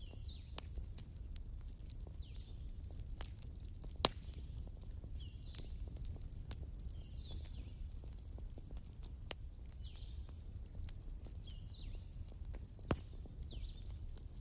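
Wood fire crackling, with scattered sharp pops over a low rumble; the loudest pops come about four seconds in and again near the end. A short falling chirp from some animal repeats every second or two.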